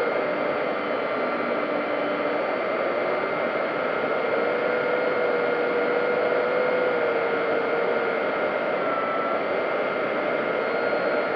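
Electric RC warbird in flight, heard from its on-board camera: the motor and propeller whine steadily over heavy wind rush, the pitch shifting slightly with throttle.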